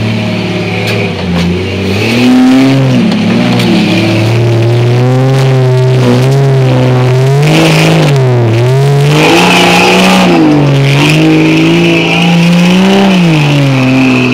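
A lifted Jeep Cherokee's engine revving hard under load as it climbs a steep, rutted dirt hill, its pitch rising and falling again and again as the throttle is worked.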